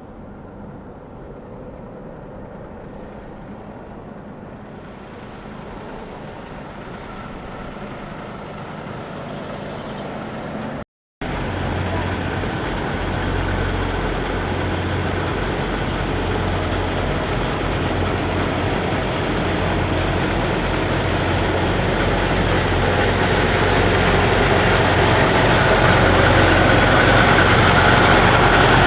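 Diesel semi-truck engines heard in two separate clips. First a truck grows slowly louder as it approaches. After a short break about eleven seconds in, a louder truck engine runs with a steady low hum and keeps getting louder as it comes closer.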